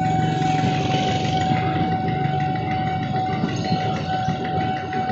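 JR 205 series electric commuter train passing over a level crossing, its wheels rumbling on the rails. The crossing's warning alarm sounds as one steady high tone above the rumble.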